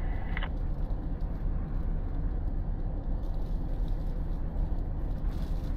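Vehicle engine running steadily, a low, even rumble.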